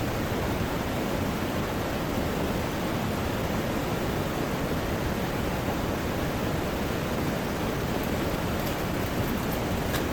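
Steady, dense wash of heavy rain mixed with rushing river water, with a few faint ticks near the end.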